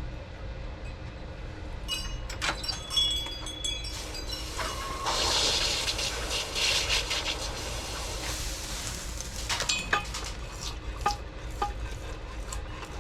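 Red-hot clay-coated wootz steel tanto blade quenched in water. After a few clinks, the loudest part is about four seconds of hissing and bubbling, starting about four and a half seconds in. Scattered sharp pops follow as the clay coating blows off the blade.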